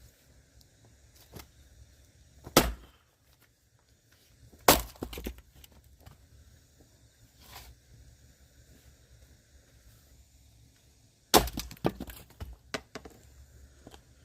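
Firewood being split with an axe: three hard chopping blows, about two seconds apart and then after a longer pause near the end, the second and third followed by a quick run of cracks as the wood splits and pieces fall.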